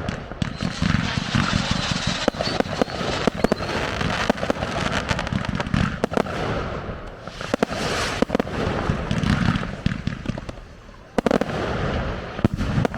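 Professional fireworks display: rapid, repeated bangs of bursting shells over continuous crackling, with swells of low booming every few seconds.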